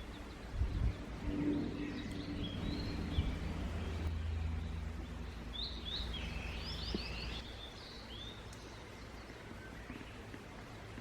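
Small birds chirping, with a quick run of twittering calls about six to eight seconds in, over a low steady rumble that drops away about seven and a half seconds in.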